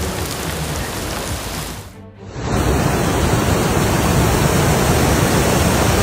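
Steady rushing of water. It cuts out briefly about two seconds in, then comes back louder and steady.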